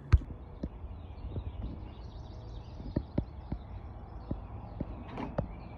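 Outdoor ambience with faint, scattered bird chirps, broken by about ten irregular low knocks and thumps, the loudest just after the start.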